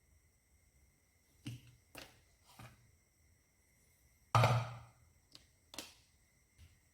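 A series of short clicks and knocks, about seven, with the loudest and fullest one about four and a half seconds in, over a faint steady high-pitched whine.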